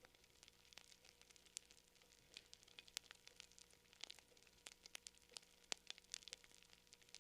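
Campfire wood crackling: irregular sharp snaps and pops, several a second, some louder than others, over a faint steady hiss.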